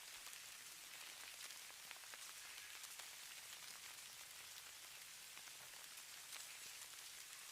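Falling-snow ambience: a faint, steady high hiss of soft patter, dense with fine ticks, much like light rain on a surface.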